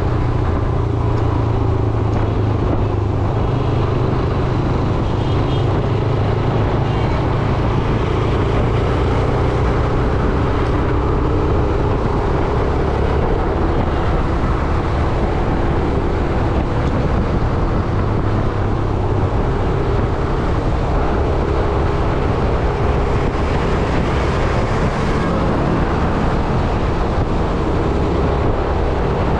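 Yamaha YBR 125G's single-cylinder four-stroke engine running steadily under way, heard from the rider's position together with road and wind noise.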